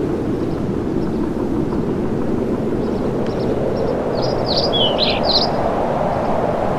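A steady low rumble with a short run of about five quick, high bird chirps a little past the middle.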